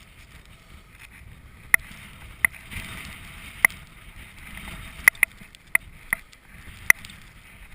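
Gusty wind rushing over the microphone, with about eight sharp, irregular ticks standing out above it.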